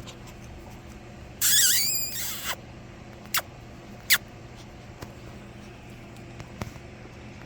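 A Shih Tzu x Bichon puppy gives a high, wavering squeal about a second and a half in, lasting about a second, followed by a few short sharp clicks.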